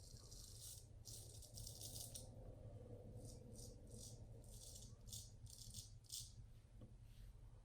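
Max Sprecher custom 8/8 straight razor scraping through lathered stubble in about a dozen short, quick strokes.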